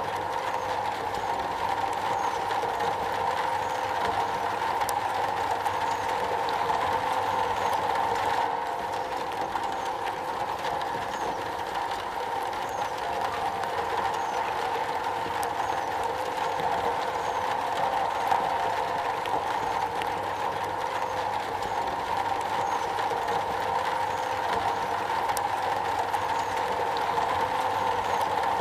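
Steady rain falling on a metal roof, an unbroken dense patter.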